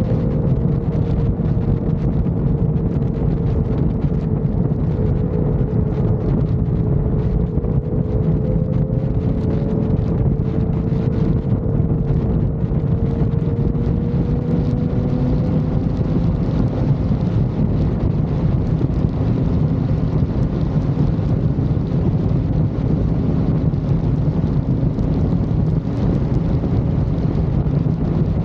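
Motorcycle cruising at highway speed: heavy wind rush on the microphone over a steady engine drone whose pitch drifts slowly.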